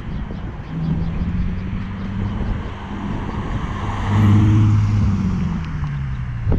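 2006 Ford Mustang's 4.0-litre V6 through an SLP Power-Flo aftermarket exhaust, the engine note building to its loudest about four seconds in, then dropping in pitch and fading.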